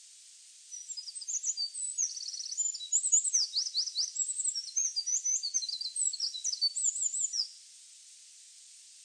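Songbird singing a rapid, high-pitched, varied song of trills and quick downward-sweeping notes for about seven seconds, over a steady hiss; it starts shortly in and stops abruptly. It is a recorded masteran track of the kind played to train caged songbirds.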